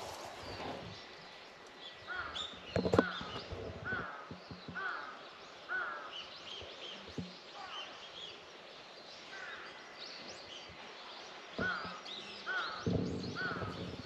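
Birds calling outdoors: one bird repeats a short call over and over, a little under a second apart, in two runs, while fainter high chirps come from other birds. A few dull thumps, the loudest about three seconds in and another cluster near the end.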